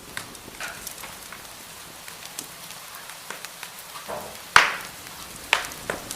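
Wood fire crackling in a fireplace: a soft steady hiss with scattered sharp pops and snaps, one loud pop about two-thirds of the way through and another shortly after.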